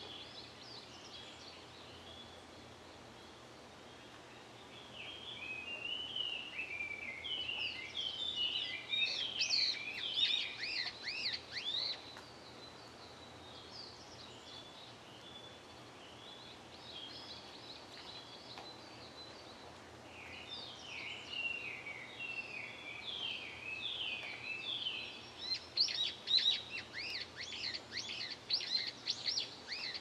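A songbird singing two long, varied song phrases, the first about five seconds in and the second about twenty seconds in, each several seconds long with quick falling notes that turn into rapid high chirps. Under them runs a steady outdoor background hiss.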